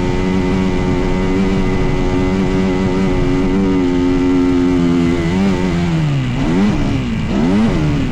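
Dirt bike engine running at a steady speed, then dropping in pitch and revved in two quick blips near the end.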